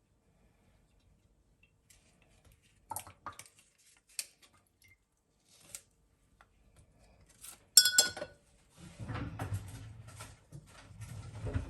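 Dishes and glassware being handled: a few light clicks, then a loud ringing clink about eight seconds in, followed by steadier clattering and handling noise.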